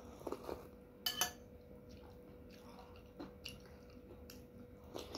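Close-up eating sounds: a person chewing spoonfuls of soto Betawi soup, with scattered sharp clicks, the loudest about a second in, over a faint steady hum.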